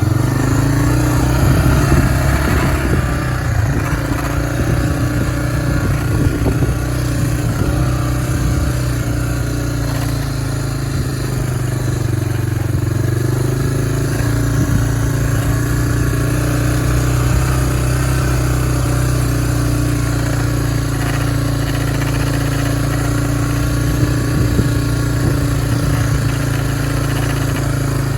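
A vehicle engine running steadily under load, its pitch shifting slightly a couple of times.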